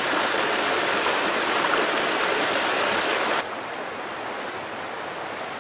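Steady rush of flowing water that drops abruptly to a quieter, duller hiss about three and a half seconds in.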